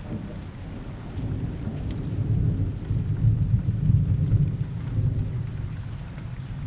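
Steady rain with a low rumble of rolling thunder that swells in the middle and then fades.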